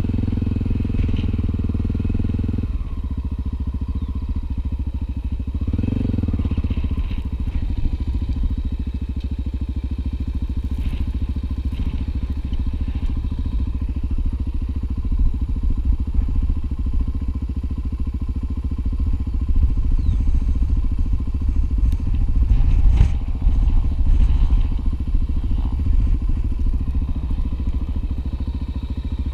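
Single-cylinder four-stroke Honda XR250 Tornado motorcycle engine running steadily under way on a dirt trail, with a few sharp knocks over the ride.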